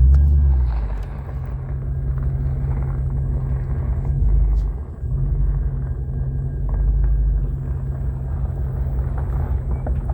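Diesel locomotive engines running with a steady low rumble, swelling deeper around four seconds in and again near seven seconds.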